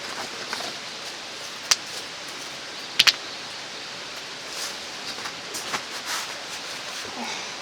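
Mountain stream rushing steadily, with a sharp click a little under two seconds in, a louder double click about three seconds in, and soft rustling of gear being handled.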